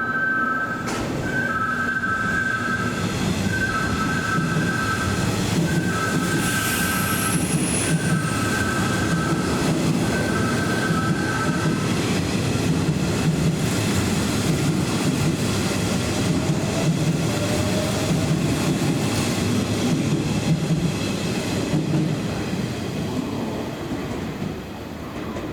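Kintetsu electric train running through the station with a continuous rumble of wheels on rail, and a faint high squeal about a third of the way in. Over the first half a repeating two-tone electronic signal sounds, then stops.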